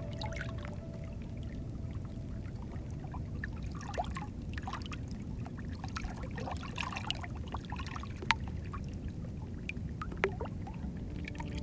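Sea water lapping and trickling, with scattered small splashes and a few sharp clicks.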